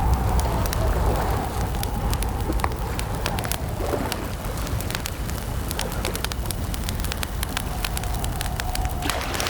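Wood campfire crackling, with frequent sharp pops and snaps over a low steady rumble. A faint wavering tone runs underneath.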